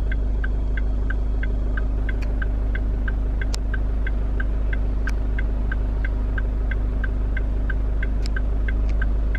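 Steady low hum of a car's engine idling, heard inside the cabin, with a light ticking repeating evenly about three times a second.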